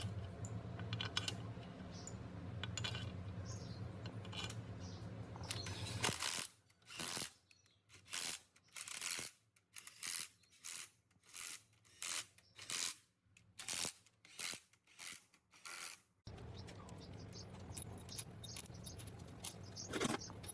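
Short, sharp metallic clinks and clicks of hand tools and engine parts being handled, roughly one to two a second, with near silence between them. Before and after this run there is a steady low hum.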